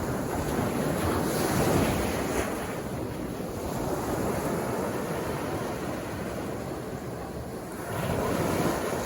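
Sea waves breaking and washing up on the beach: a steady surf wash that swells about two seconds in, eases off, then builds again near the end as the next wave comes in.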